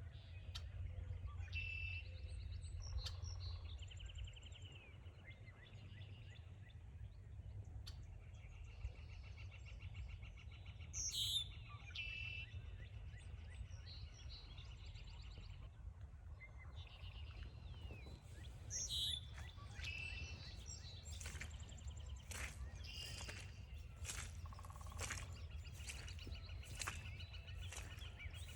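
Wild songbirds calling and singing: several rapid trilled songs and a few sharp calls, over a low steady rumble. In the last third, a run of short sharp crackles comes in.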